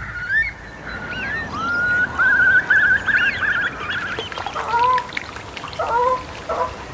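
Estuary birds calling over a soft background hiss: rising whistles and a warbling trill, then several short honking calls from waterfowl in the second half.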